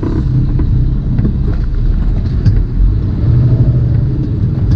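Tractor-trailer's diesel engine and road noise heard inside the cab while driving, a steady low rumble.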